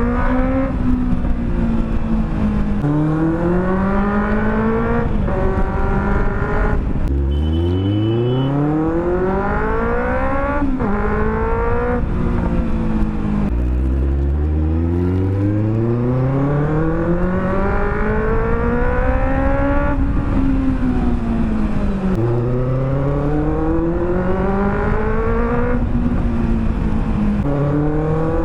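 Benelli 600 GT inline-four engine accelerating through the gears. The revs climb steadily and fall back at each upshift, and twice the bike pulls up from low revs in a long rising run.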